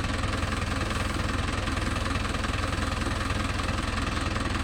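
Mahindra Yuvo Tech Plus 585 tractor's diesel engine running steadily with an even low pulsing.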